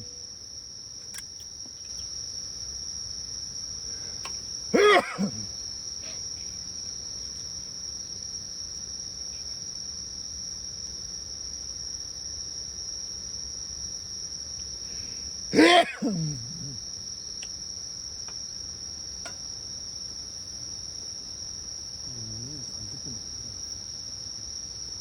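Crickets or similar insects chirping in a steady, high, continuous chorus. Twice, about five seconds in and again near sixteen seconds, a loud brief sound sweeps sharply down in pitch over the chorus.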